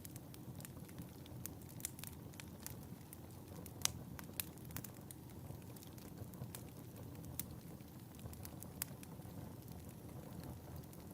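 Fire in a fireplace crackling: irregular sharp pops and snaps over a low, steady rumble of the flames, with the loudest pop about four seconds in.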